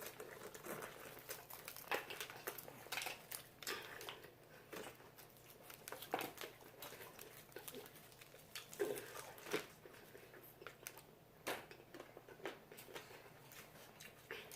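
Faint chewing and crunching on fried chicken wings, with scattered small clicks and crackles.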